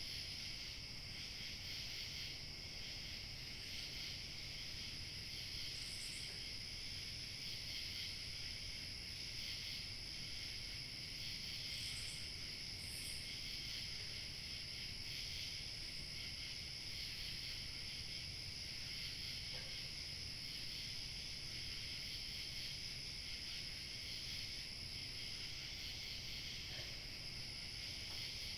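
A steady chorus of crickets chirping without a break, over a low rumble of light wind, with a few brief higher chirps standing out.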